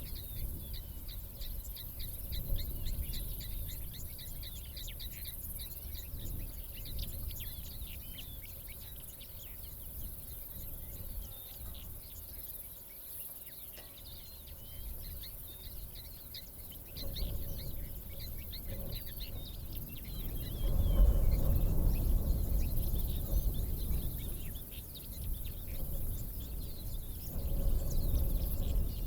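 Many small birds chirping and calling in quick, overlapping short notes on the open savanna. A low rumble swells in several times in the second half, loudest about two-thirds through.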